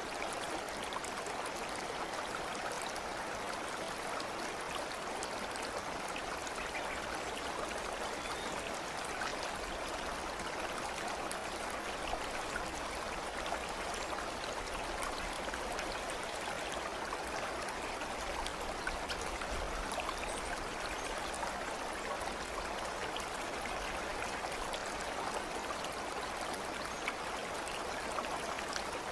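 A stream of water flowing steadily, an even rushing sound with faint small ticks scattered through it.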